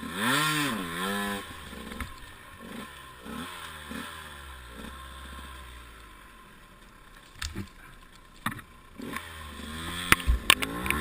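Enduro motorcycle engine revving up and down, strongest in the first second and a half, then weaker rises and falls and a lull. Near the end it picks up again, with knocks and clatter.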